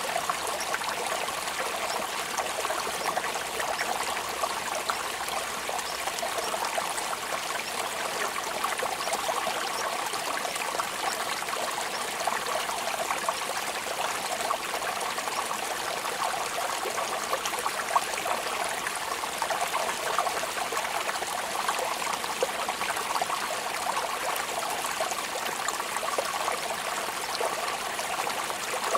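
Steady rainfall: a dense, even patter of drops that holds at one level, with a few sharper single drops standing out.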